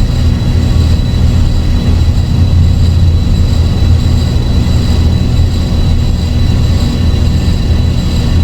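Dark ambient electronic drone music: a loud, steady low rumble with a thin high tone held above it, with no beat and no break.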